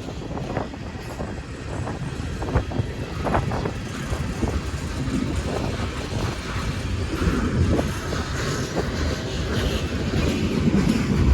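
Freight train rolling past on the tracks: wheels knock a few times early on, then a low rumble grows steadily louder.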